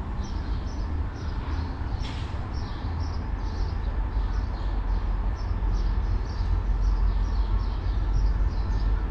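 Low rumble of an approaching diesel train, growing louder, under a rapid run of short, high bird chirps.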